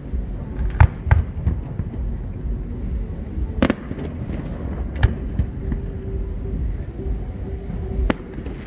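Aerial firework shells bursting: about five sharp bangs, two close together about a second in, the loudest near the middle and another near the end, over a steady low rumble.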